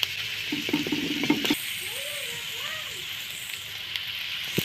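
Chopped onion and garlic sizzling in oil in a wok, with a short clatter about a second in and a single sharp knock near the end.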